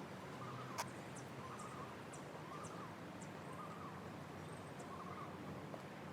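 A swing creaking rhythmically, one short squeak rising and falling in pitch roughly every second, with faint high chirps or ticks between.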